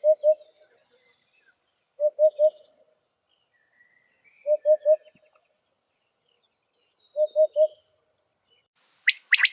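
A bird repeating a low three-note call four times, a group every two to two and a half seconds, over faint high chirps and trills from other birds. Near the end come two sharp, loud rising calls.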